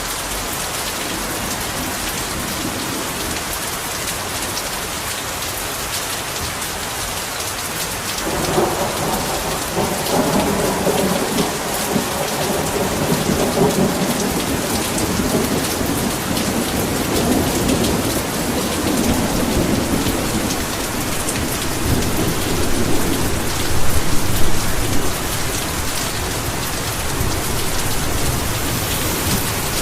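Heavy rain falling steadily. About eight seconds in a long roll of thunder begins, rumbling on and swelling to its loudest about three-quarters of the way through before fading.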